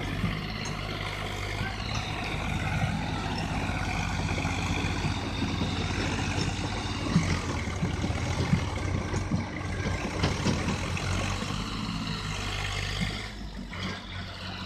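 Diesel engine of a Swaraj tractor running steadily under a trolley, with a few knocks and rattles in the middle. It grows quieter near the end.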